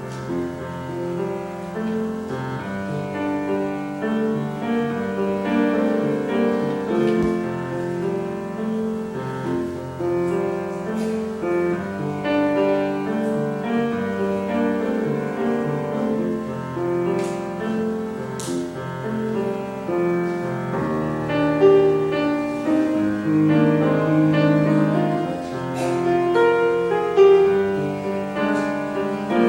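Piano playing slow music in held, overlapping chords.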